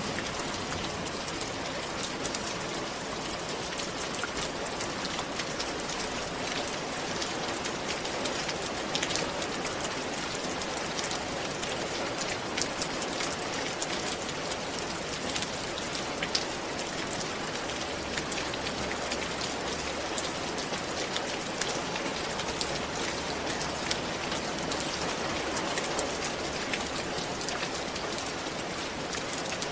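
Steady rain falling on a roof, an even hiss with many individual drops clicking.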